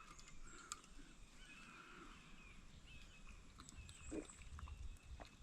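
Quiet sounds of a man drinking water during a break: faint swallowing and breathing with small clicks, and a soft low sound about four seconds in.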